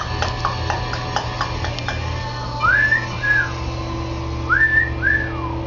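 Wolf whistles given twice, each a rising note followed by a falling one, as a parrot is prompted to whistle at the pretty girl. Before them comes a run of quick ticks, about five a second, in the first two seconds.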